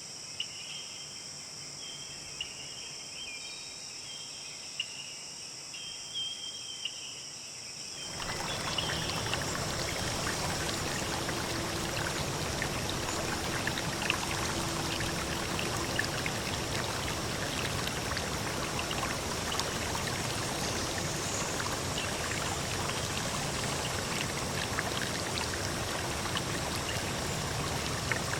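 Steady insect chorus with faint chirping. About eight seconds in it cuts abruptly to louder flowing water, like a stream, with scattered drips and splashes.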